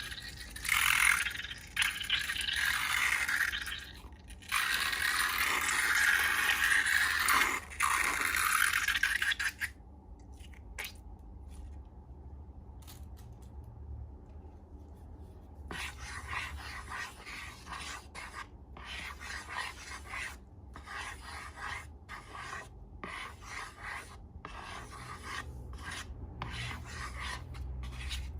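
Scraping and rubbing noises: a loud, continuous stretch of rough friction for the first nine seconds or so, then quieter, and from about halfway on a run of short, repeated rubbing strokes.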